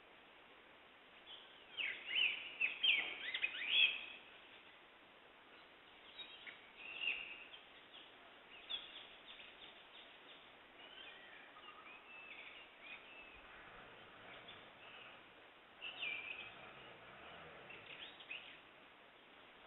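Forest birds singing and calling: a quick run of high chirps and trills about two seconds in, scattered calls after, and another short burst near the end.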